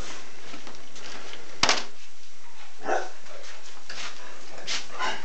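Dogs giving a few short barks while they wait to be fed; the sharpest comes about a second and a half in.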